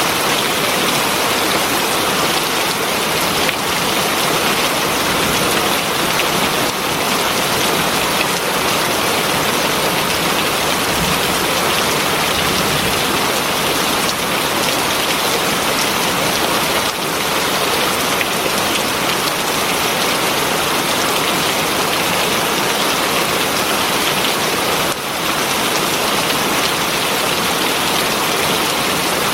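Heavy rain falling steadily, an even, dense hiss of drops on surfaces.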